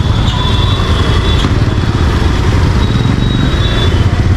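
Busy street traffic noise: a steady rumble of motorcycle and vehicle engines, with thin high-pitched tones coming and going over it.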